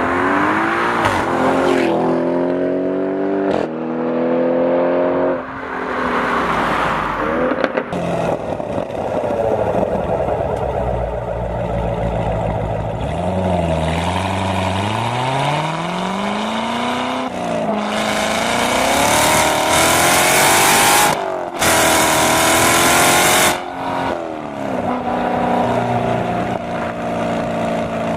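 V8 performance car accelerating hard, the engine note climbing and dropping back at each upshift through several gears. In the latter part a loud rush of wind and road noise at high speed covers the engine, and the sound breaks off abruptly a few times between runs.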